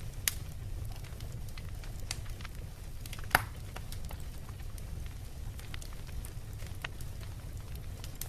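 Beach bonfire crackling, with scattered sharp pops; the loudest comes about a third of the way in. A steady low rumble runs beneath.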